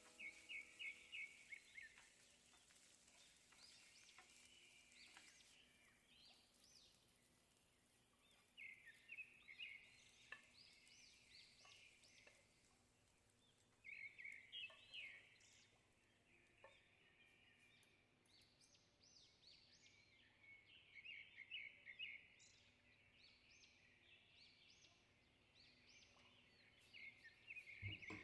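Faint bird song: bouts of rapid chirping trills every few seconds, mixed with short rising calls.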